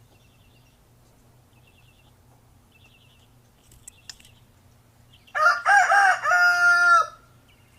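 A bird crowing like a rooster, one cock-a-doodle-doo crow about two seconds long, starting about five seconds in. Faint, short, high chirps come before it.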